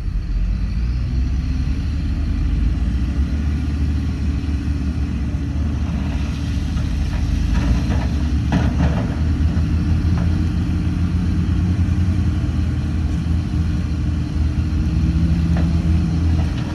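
Heavy diesel engine of earthmoving machinery running steadily. It picks up in pitch about a second in and then holds. A few short clanks and scrapes come near the middle.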